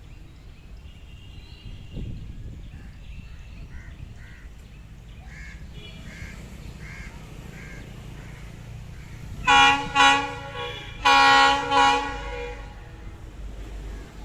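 Train running with a steady low rumble, its locomotive horn sounding near the end: two short blasts and then one longer blast.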